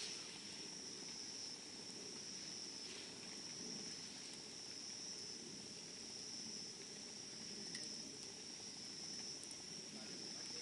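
Wood bonfire burning quietly with a few faint crackles, under a steady high-pitched insect trill.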